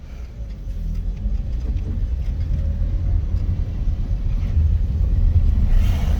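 Low rumble of a car heard from inside the cabin, growing steadily louder as the car gets moving.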